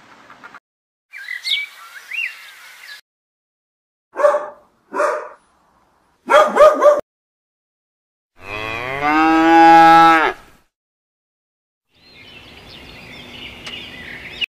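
A cow mooing once: a long call of about two seconds, falling in pitch at the end, and the loudest sound. Several short, separate animal calls come before it. Near the end there is a stretch of faint bird twittering.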